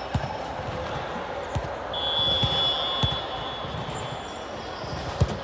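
Sports-hall ambience: a ball thuds sharply on the hardwood court or against hands every second or two, over the echoing murmur of players in the hall. A high-pitched squeak holds for over a second about two seconds in.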